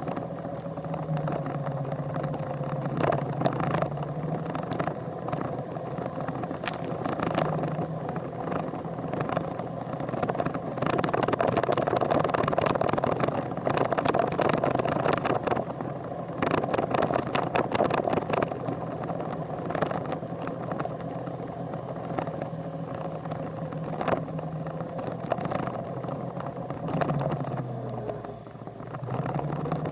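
Motorcycle engine running on the move, with road and wind noise over it. The engine pitch drops near the end as it slows, then rises again as it pulls away.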